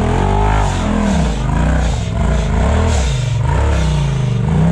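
Side-by-side off-road buggy engine revving in repeated surges, the pitch climbing and dropping several times as the driver works the throttle to bump the buggy up a rock obstacle.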